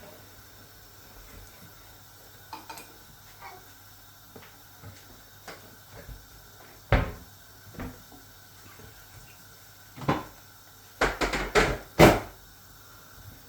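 Cookware being handled: a pan lid and pots knocking and clattering in a series of separate sharp knocks, with the loudest cluster near the end.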